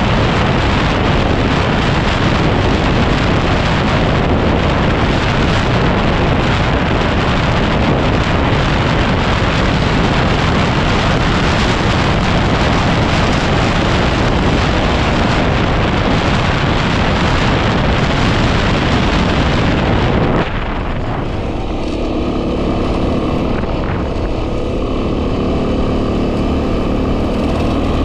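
Heavy wind noise buffeting the microphone over a 2010 Yamaha WR250R's single-cylinder engine while riding. About two-thirds of the way through, the wind noise suddenly drops and the engine's steady running note comes through clearly.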